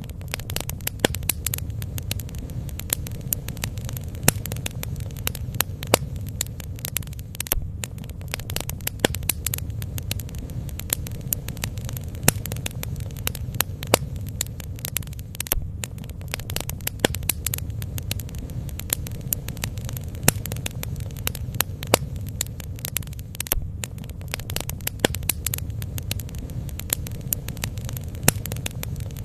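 Bonfire burning, with frequent sharp crackles and pops of burning wood over a steady low rumble.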